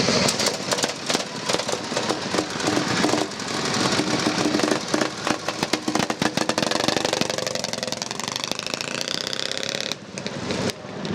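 Vintage motorcycle engine running with a rapid, hard firing beat, then revved so its pitch rises over a few seconds, dropping back briefly near the end.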